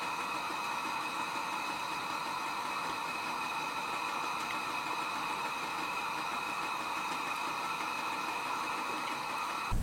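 A steady, even hiss with several faint constant tones running through it, unchanging throughout.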